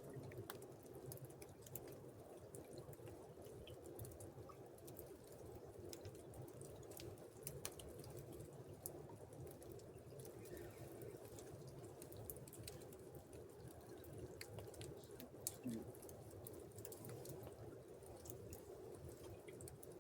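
Faint steady flowing river water, with scattered small clicks over it.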